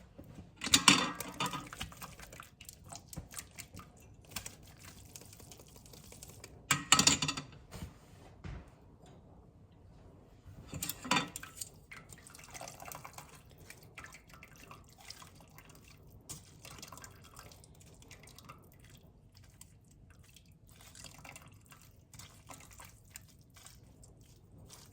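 Bone broth being poured through a strainer, with three louder pours about one, seven and eleven seconds in and liquid dripping between.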